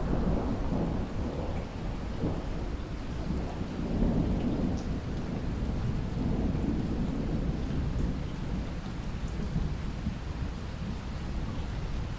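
Steady rain with a long, low roll of thunder that swells in at the start and rumbles on beneath the rain.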